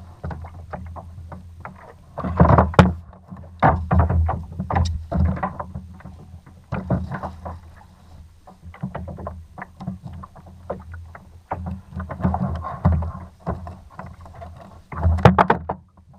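Irregular knocks and thumps on a Hobie fishing kayak's plastic hull, loudest about two seconds in and again near the end, over a steady low hum.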